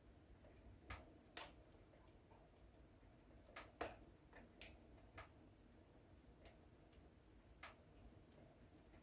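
Wood fire in a fireplace crackling: faint, irregular sharp snaps and pops at uneven gaps over a steady low background, with the loudest pop near the middle.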